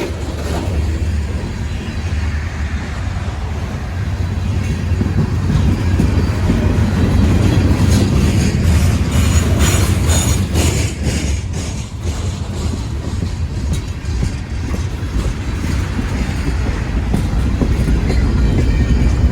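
Freight train rolling past: a steady low rumble of freight cars, with a run of sharper wheel clicks over rail joints about eight to twelve seconds in.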